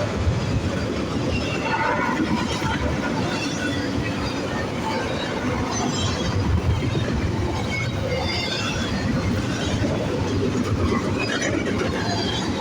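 BNSF freight train passing at speed: a steady loud rumble and clatter of wagon wheels on the rails, with short high squeals here and there.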